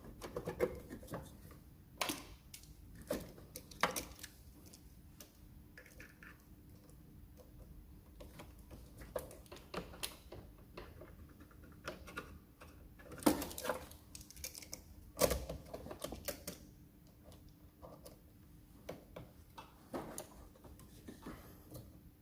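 Irregular clicks and light knocks of hand work on a car as parts and connectors are fitted, with the sharpest knocks a little past the middle. A faint steady hum runs underneath.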